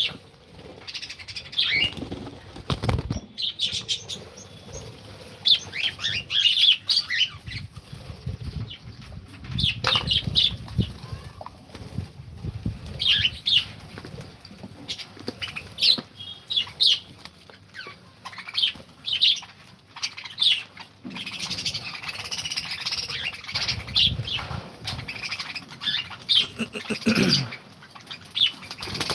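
A colony of cockatiels and lovebirds in an aviary, chirping repeatedly in short high calls, with bursts of wing flapping; the chirping gets busier and louder near the end.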